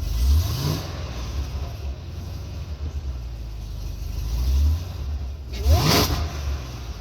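2010 Cadillac CTS-V's supercharged 6.2-litre V8 on an E85 tune, with headers, X-pipe and stock mufflers, idling with two quick throttle blips: a short rev just after the start and a bigger, sharper rev about six seconds in.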